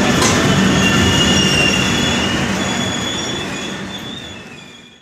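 Train running on the rails with a steady rumble and thin, high wheel squeals, fading away over the last two seconds.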